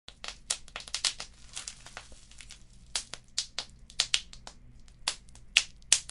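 Wood fire crackling: irregular sharp pops and snaps, several a second and a few louder ones, over a faint low rumble.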